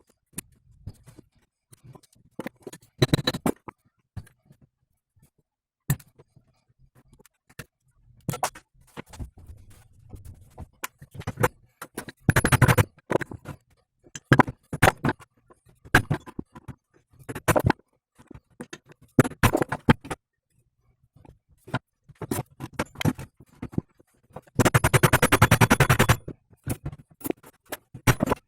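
Hand tools working on a metal driveshaft and U-joint: scattered sharp knocks and clinks, with a fast rattling run of clicks near the end.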